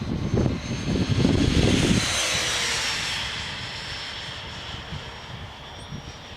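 Electric ducted-fan whine of a FreeWing A6 Intruder RC jet flying past, swelling to a peak about two to three seconds in, then fading as its pitch drops slightly.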